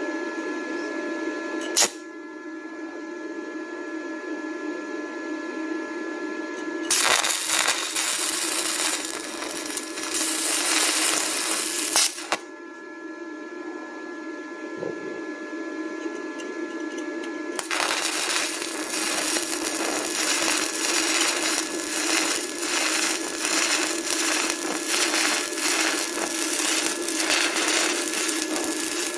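Stick-welding arc crackling and sizzling from a 6013 rod at about 32 amps, in two runs: one from about seven seconds in to about twelve, and a longer one from about eighteen seconds in. A steady hum runs underneath.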